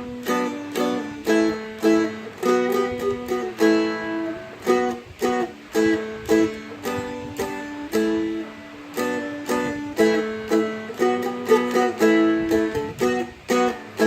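Seagull Merlin M4, a four-string fretted dulcimer-style instrument, strummed in a steady rhythm through fast chord changes with the melody picked in on top.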